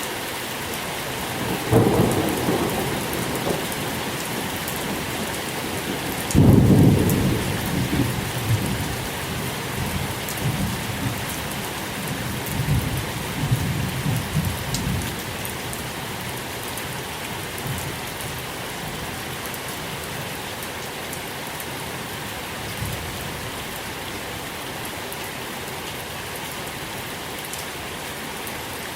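Steady rain falling, with thunder: a rumble about two seconds in, then a louder roll about six seconds in that rumbles on and fades by about the middle.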